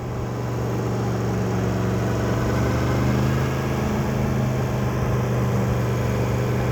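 Yamaha MT-10's inline-four engine running steadily at low speed, a continuous hum that swells slightly in the first second and then holds even.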